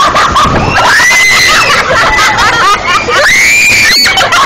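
Young people screaming in alarm, several high-pitched screams overlapping, two of them long and drawn out, over the noise of heavy rain.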